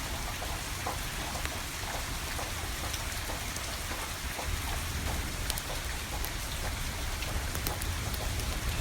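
Steady rain falling, with scattered sharp pops and crackles from burning firewood over a low steady rumble.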